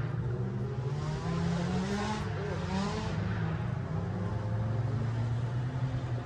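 Drift cars' engines revving, their pitch rising and falling, with brief rushes of tyre noise about two and three seconds in.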